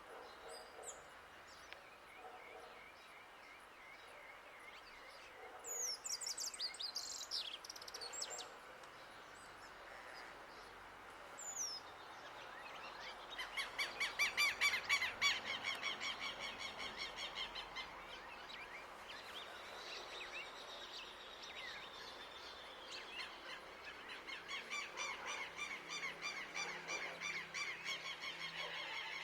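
A hooded siskin singing: long runs of fast, twittering chirps, one about halfway through and another near the end. A few sharp, high, falling call notes come earlier.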